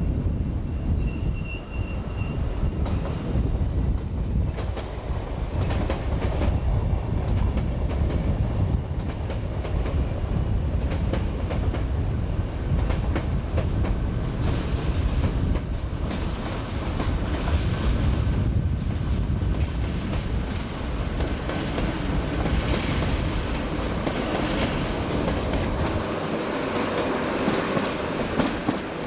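A train running past on the rails: a steady heavy rumble with the rapid clicking of wheels over the track, and a thin high squeal in the first couple of seconds. The deepest part of the rumble falls away near the end.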